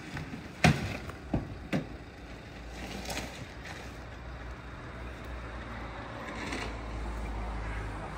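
Four sharp knocks or clunks, the loudest less than a second in. Then a low, steady vehicle engine rumble begins and swells louder near the end.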